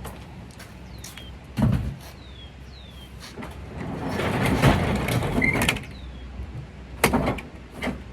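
Two sharp thumps about five seconds apart, like a door shutting, with a louder rattling clatter between them. A bird repeats a short falling chirp about once a second.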